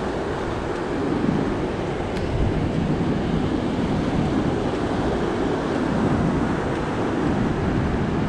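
Ocean surf washing onto the beach as a steady low rush, mixed with wind buffeting the microphone.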